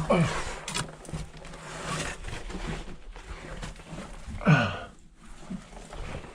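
A man's grunts of effort, twice, each falling sharply in pitch, the second the loudest, with scuffing and scraping in between.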